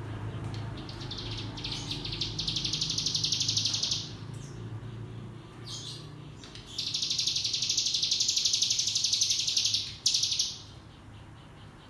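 Ciblek gunung (hill prinia) singing the rapid buzzing 'ngebren' trill twice. The first trill starts about a second in and lasts some three seconds. The second starts about seven seconds in and lasts nearly four.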